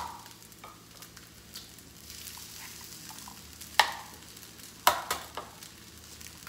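Fried rice sizzling in a hot wok as eggs are cracked into its centre, with two sharp knocks of eggshell being cracked about four and five seconds in.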